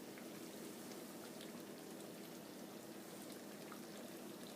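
Chicken in a cream and Marsala wine sauce bubbling faintly in a pan over raised heat: a steady soft hiss with small scattered pops.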